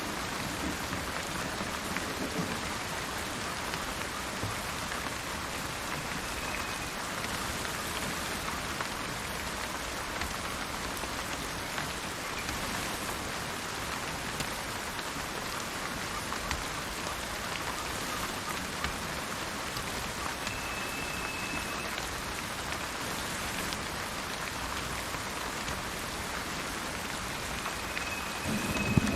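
Steady heavy rain falling. A few brief high whistled bird notes come through it, and a thunder rumble fades out in the first couple of seconds and starts building again near the end.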